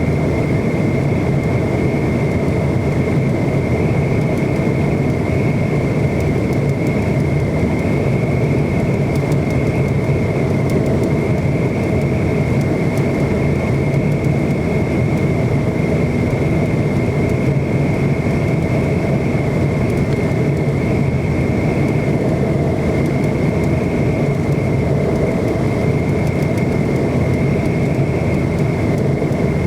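Steady cabin noise of a McDonnell Douglas MD-90 airliner: a constant low rumble with a thin, even high whine from its rear-mounted engines.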